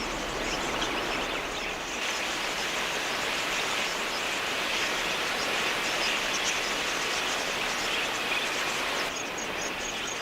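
A large flock of budgerigars chattering, a dense wash of many small overlapping chirps. Near the end it gives way to a quieter background with a regular high ticking.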